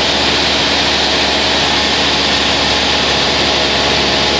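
Light aircraft's piston engine and propeller running with a steady, unbroken drone.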